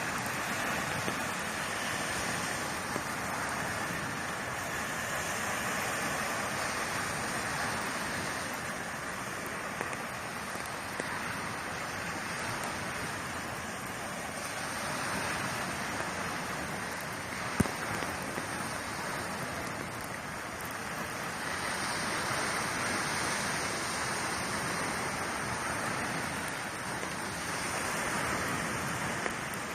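Sea waves breaking and washing up a beach, a steady rush that swells and eases every several seconds. A single sharp click a little past halfway.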